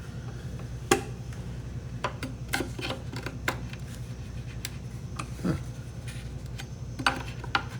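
Scattered light knocks and clicks, about a dozen, of hand tools being handled and set into a wooden toolbox, over a steady low hum.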